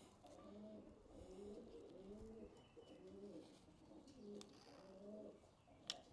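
Homing pigeons cooing softly in the loft: a run of short, low coos repeating over and over. A single sharp click comes near the end.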